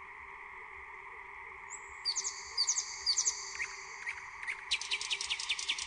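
Nightingale singing: a few high whistled notes, then a fast run of repeated sharp notes, about eight a second, near the end.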